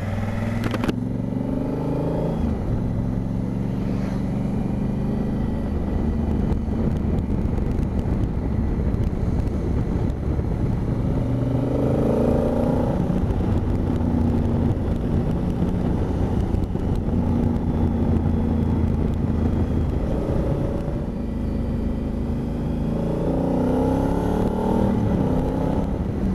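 Honda Africa Twin parallel-twin engine pulling the motorcycle along a mountain road, its pitch climbing and dropping in steps with throttle and gear changes. Constant wind rush underneath.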